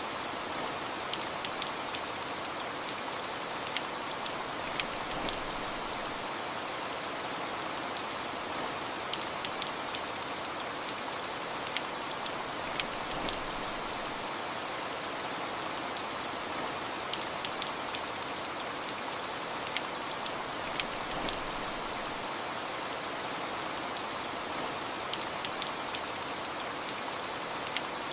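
Steady rain falling, a dense hiss with many individual drops ticking sharply on a surface.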